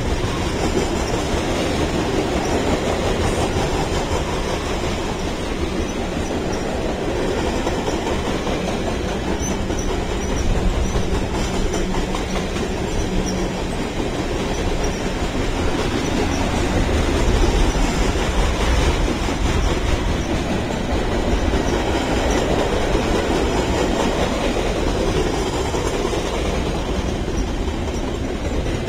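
Freight train of loaded flatcars rolling past, a steady rumble of steel wheels on the rails.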